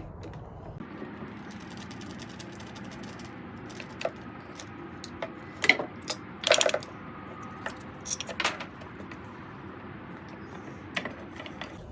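Small hard parts being handled, clinking and rattling in a few sharp bursts around the middle, over a steady background hiss.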